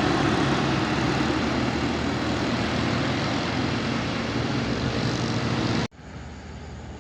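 A heavy truck engine running loud and steady, which cuts off abruptly about six seconds in, leaving a fainter steady hum.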